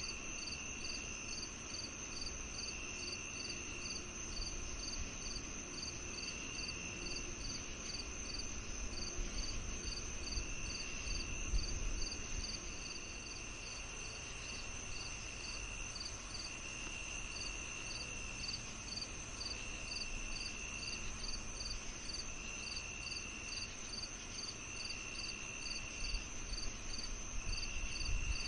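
A chorus of crickets and other insects. A steady high trill runs under regular chirps about three times a second, while a lower trill switches on and off in stretches of about a second.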